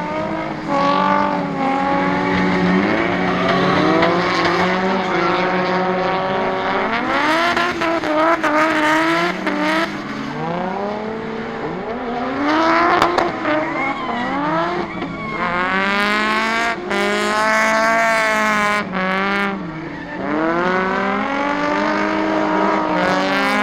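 Drift cars' engines revving hard, their pitch swinging up and down again and again as they go round the track, with a burst of tyre squeal about two-thirds of the way through.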